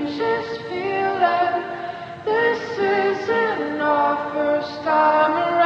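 A woman's voice singing a melody in long held notes, with little or no instrumental backing.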